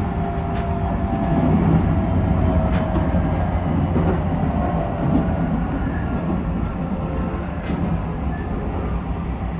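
Keisei 3000 series commuter train running, heard from inside a passenger car: a steady low rumble from the wheels and running gear, with a few sharp clicks.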